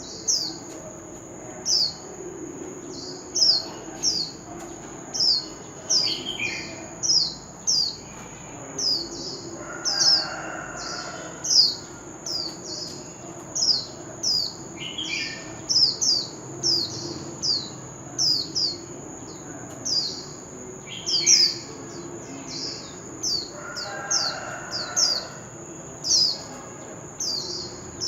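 Oriental magpie-robin singing: a long run of short, high, down-slurred whistled notes, repeated about once or twice a second, over a steady high-pitched whine.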